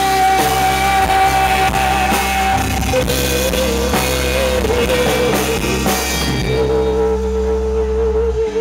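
Live rock band playing the end of a song: long held melody notes over bass and drums. The cymbals and upper band drop away about six and a half seconds in, leaving the held note and bass.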